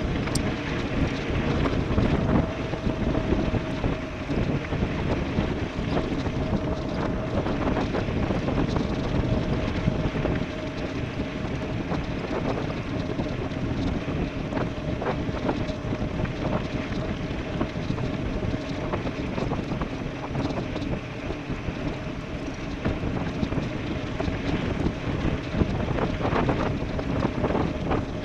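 Wind buffeting the microphone and tyre rumble from an e-bike descending at speed, with a faint steady hum underneath.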